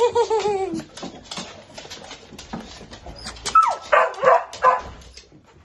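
Toy poodle whining in long, falling cries, then a quick burst of short high yips about three and a half seconds in.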